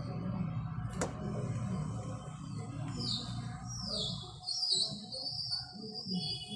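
A small bird chirping from about three seconds in: a run of short, high, falling chirps over a low, steady background hum.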